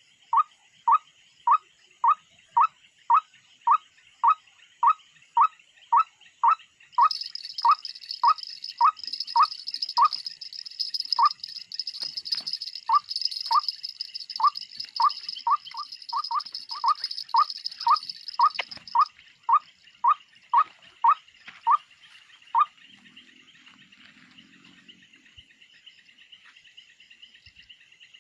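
White-breasted waterhen calling a steady, monotonous series of short notes, just under two a second, that stop a little over twenty seconds in. Insects trill steadily behind it, with a louder high-pitched buzz from about seven to nineteen seconds in.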